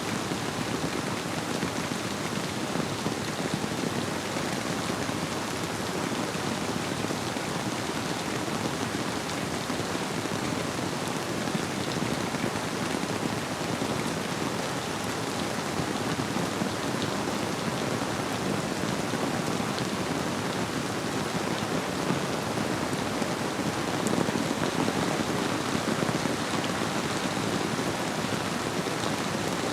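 Steady rainfall blended with a flowing river: an even, unbroken hiss of rain with no distinct drops or thunder standing out.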